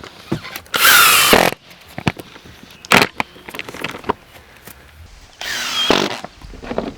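Extruded polystyrene (XPS) foam board being cut, squeaking and scraping in two loud strokes of under a second, about a second in and again near the end, with a few short scrapes between.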